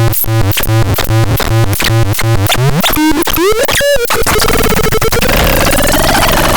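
Electronic synthesizer sounds: a low pitched note repeating about twice a second, then gliding upward about three seconds in, a sharp glitch, and a dense noisy texture with a slowly wavering tone.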